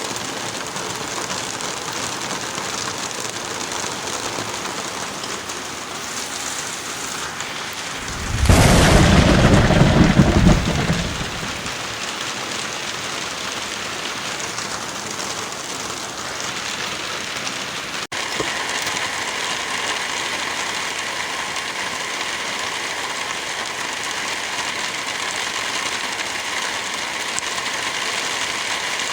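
Heavy rain falling steadily, with a loud clap of thunder about eight seconds in that rolls for a couple of seconds. About two-thirds of the way through the sound breaks off for an instant, and the rain carries on a little louder.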